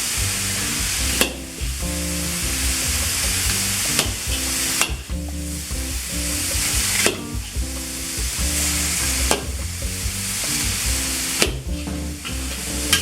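Chicken and vegetables stir-frying in a hot pan with a little water: a steady sizzle, with a utensil knocking against the pan about seven times as the food is stirred.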